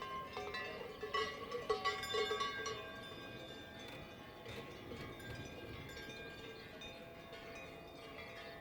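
Many cowbells on grazing livestock ringing irregularly at different pitches, busiest about one to three seconds in.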